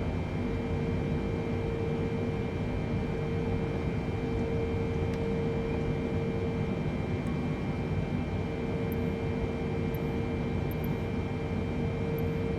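Steady hum and hiss of a Boeing 747-8 holding before departure, its engines at idle, with a constant mid-pitched tone and a fainter high tone running through it.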